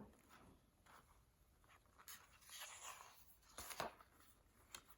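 Near silence: room tone with faint rustling and a couple of soft taps.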